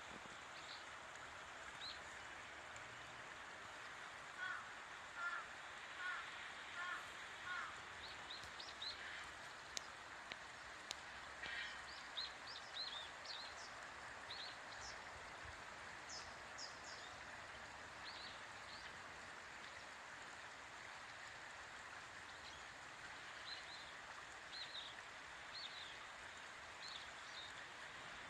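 Steady rush of a stream, with many short, high-pitched bird calls scattered through it, thickest in the middle. About five seconds in comes a run of five lower, hooked notes.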